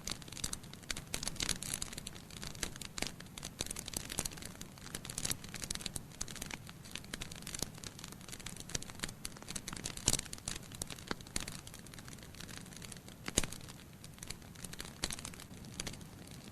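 Wood fire burning in a fireplace: burning logs crackling and popping over a soft steady rumble of the flames, with two louder pops about ten and thirteen seconds in.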